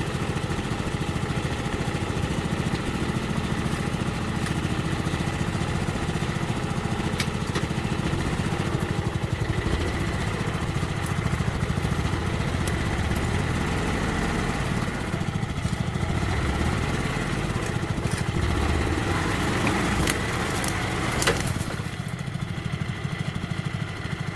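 A small engine running steadily, with a few sharp clicks about twenty seconds in; it gets a little quieter near the end.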